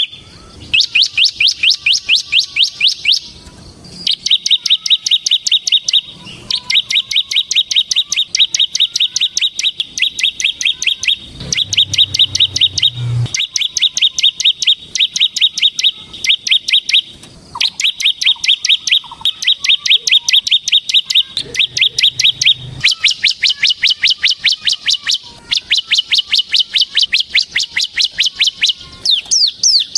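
A bar-winged prinia (ciblek) singing in full voice, the rapid drilling 'ngebren' song: fast runs of evenly repeated high, sharp notes, each run lasting a few seconds, with short pauses between them.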